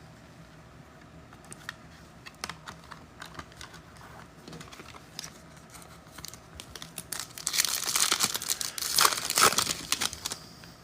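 Light clicks and taps of cards being handled, then, about seven seconds in, a louder few seconds of crinkling and tearing from a foil trading-card pack wrapper being ripped open.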